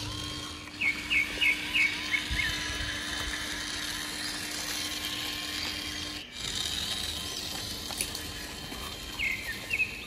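A bird chirping in a quick series of short, falling chirps about a second in, and a few more near the end, over steady outdoor background noise. A faint steady hum stops about six seconds in.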